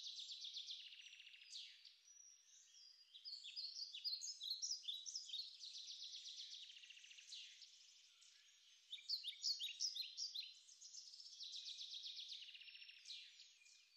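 Faint birdsong: quick, high chirping phrases that come in spells with short pauses between them.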